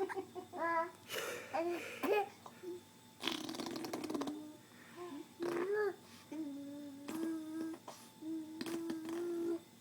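Baby making funny noises: short cooing and humming sounds that glide up and down in pitch, broken by a few noisy bursts of blowing raspberries, with some laughter.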